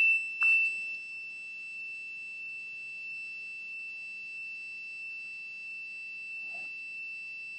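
Multimeter continuity beeper sounding one steady high-pitched tone, the sign of a short to ground on the rail being probed. It is loud for about the first half-second, then drops to a faint steady tone.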